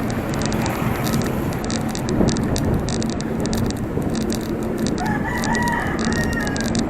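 A rooster crows once, about five seconds in, over steady road and wind noise.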